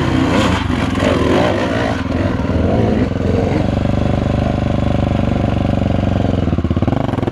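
Honda XR 250 Tornado's single-cylinder four-stroke engine revving hard under load as the dirt bike climbs a loose, rocky hill. The pitch wavers at first, then holds a steady high note from about halfway.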